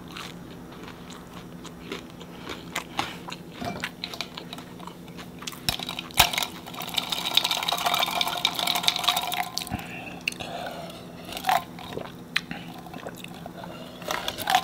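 Close-miked chewing and crunching as pizza is bitten and eaten: irregular crackly clicks and wet mouth sounds, busiest from about seven to ten seconds in.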